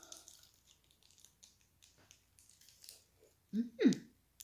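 A person chewing a piece of Snickers bar, with faint wet mouth clicks, then two short hummed 'mm' sounds near the end, the second louder and falling in pitch.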